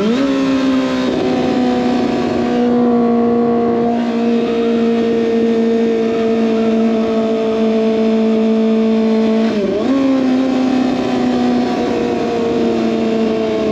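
Kawasaki ZX25R inline-four engine running through an SC Project exhaust while riding, holding a steady pitch. The revs dip sharply and recover at the start and again about ten seconds in, then ease slowly down near the end.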